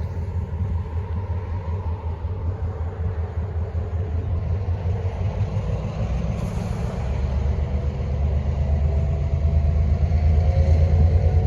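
Low, steady vehicle rumble that grows louder in the second half, with faint wavering tones near the end.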